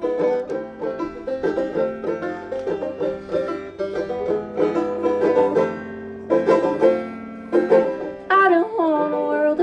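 Live band playing an instrumental break led by quick banjo picking over a steady backing. A voice starts singing near the end.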